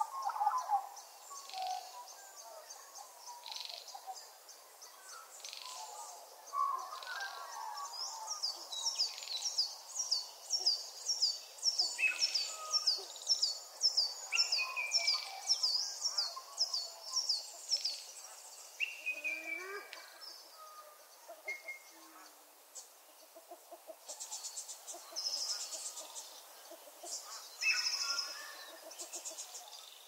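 Wild birdsong from several birds, with a long run of quick, high, falling notes repeated about twice a second in the middle and shorter high trills and chirps around it.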